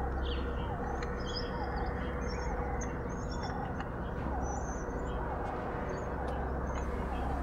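Wild birds calling: one bird repeats a short call about once a second while others give scattered high chirps, over a steady background hiss.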